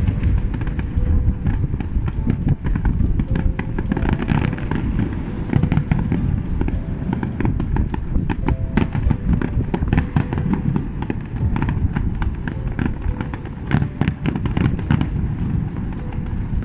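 A fireworks display going off: a dense, continuous barrage of rapid crackles and bangs over a deep rumble of bursting shells, with music playing underneath.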